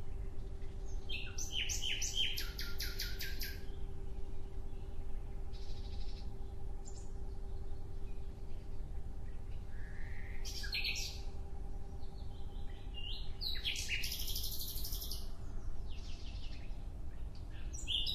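A small bird chirping in three bursts of quick repeated high notes: one near the start, one about ten seconds in and one a few seconds later. A steady low hum runs underneath.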